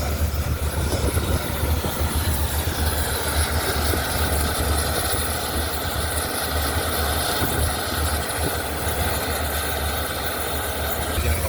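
A steady engine running at idle, a deep even hum.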